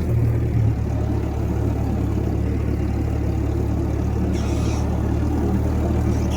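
1956 Massey Ferguson F40 tractor engine running steadily under way, with a brief hiss about four and a half seconds in.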